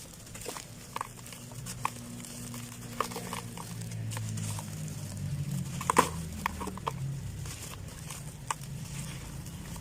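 Dry sand-and-cement clods crumbling, with sparse small crackles and a sharper crunch about six seconds in, over a low steady hum.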